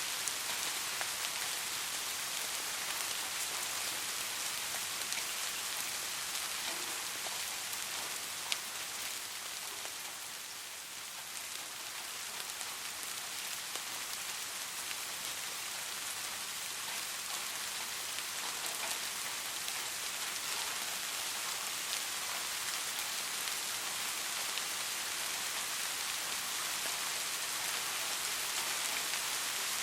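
Soft steady rain falling, a continuous hiss of drops with scattered individual drop ticks, one sharper drip about eight seconds in.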